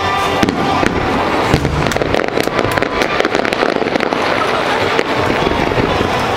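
Aerial fireworks bursting and crackling continuously, with a dense run of rapid crackles in the middle.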